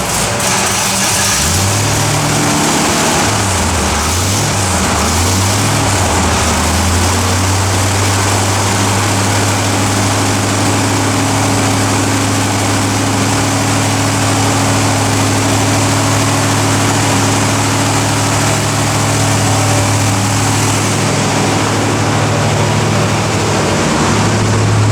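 383 Chevy small-block stroker V8 running on an engine dyno: revved up and down a few times in the first several seconds, then holding a steady fast idle while it warms up.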